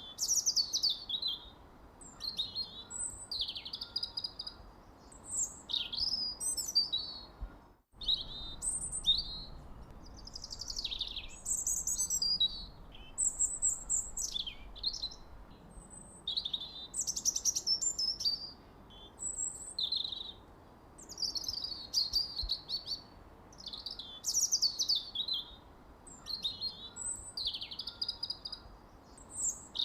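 Songbirds chirping: short, high phrases with quick downward sweeps, repeating every second or two over a faint steady background hiss. The sound drops out completely for an instant about eight seconds in.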